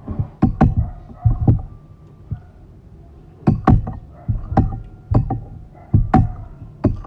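Close-miked eating sounds: chewing with repeated sharp mouth clicks and lip smacks, coming in irregular clusters with pauses between.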